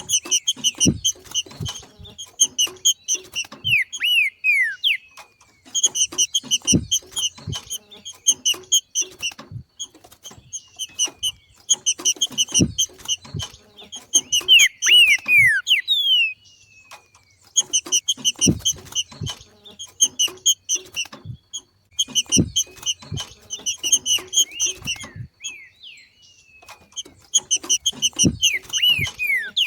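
Green-winged saltator (trinca-ferro) giving its 'macheado', a fast chattering run of sharp notes in repeated bouts of a few seconds each, several of them ending in quick falling slurs. Dull low thumps sound among the notes.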